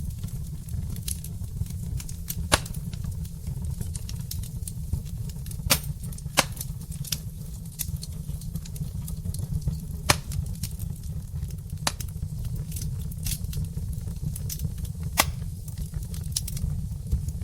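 Wood fire burning in a fireplace: a steady low rumble of the flames with scattered crackles and a few sharp pops from the burning logs.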